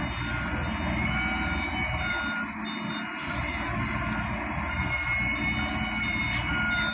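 Heavy diesel machinery running with a low rumble while a reversing alarm beeps repeatedly; two short bursts of hiss come a few seconds apart.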